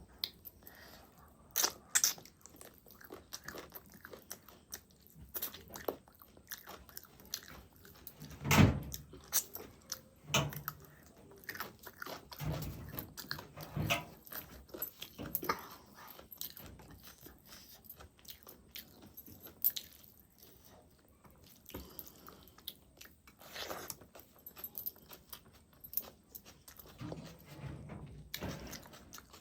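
Close-miked eating: chewing and biting mouthfuls of rice with spicy chicken curry, wet mouth noises and clicks in short, irregular bursts.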